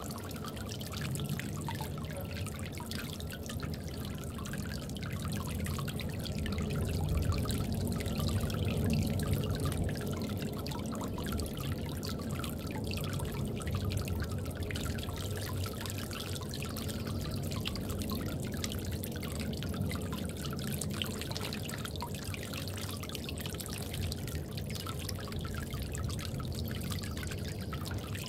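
Water trickling and dripping steadily in a bird bath, with many small drips and splashes.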